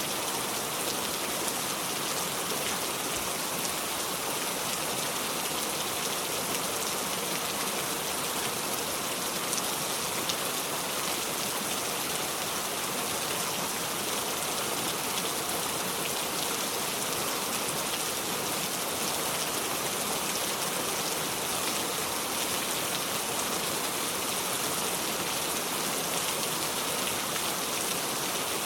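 Steady heavy rain falling, an even hiss with a fine patter of drops and no thunder.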